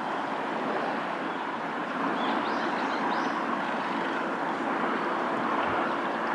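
Steady rushing of flowing river water, with a few faint high bird chirps a couple of seconds in.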